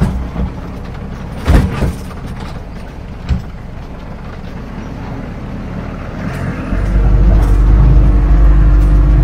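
Land Rover Series with a 14B diesel engine driving, its engine and road noise steady, with a few short knocks. About seven seconds in, the sound becomes much louder and deeper, with a steady drone.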